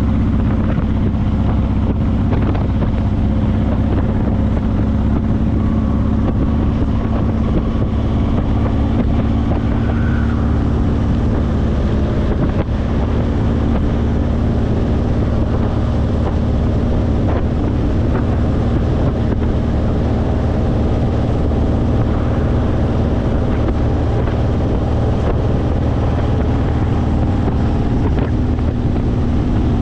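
Honda VTX1800's 1800 cc V-twin with Vance & Hines aftermarket exhaust pipes running at a steady cruise, with wind noise on the microphone.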